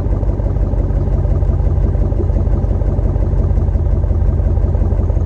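The 5.7-litre Hemi V8 of a 2011 Ram 1500 idling steadily through a muffler-delete pipe in place of the muffler.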